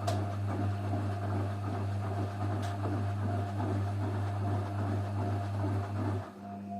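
Washing machine running with its drum turning, a steady motor hum with laundry and water churning over it; the motor stops near the end, leaving a lower electrical hum.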